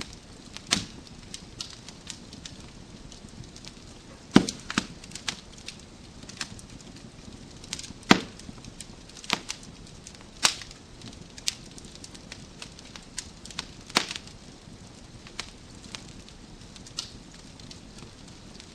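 Wood fire burning in a fireplace: logs crackling with irregular sharp pops and snaps over a soft steady hiss, several louder pops scattered through.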